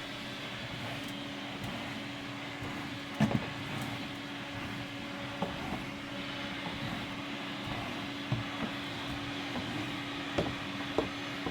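Fairfax vacuum cleaner running steadily with a constant hum as it is worked over carpet, with a few short knocks, the loudest about three seconds in.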